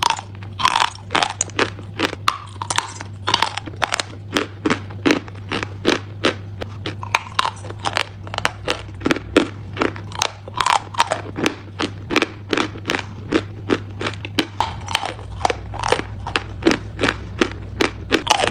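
Dry chalk being bitten and chewed: a fast, irregular run of sharp, dry crunches, roughly three a second, over a faint steady low hum.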